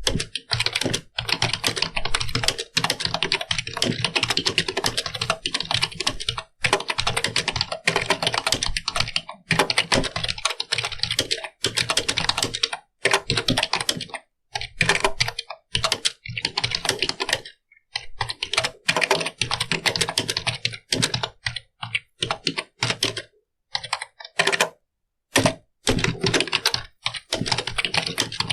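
Computer keyboard being typed on: fast runs of key clicks, broken now and then by short pauses.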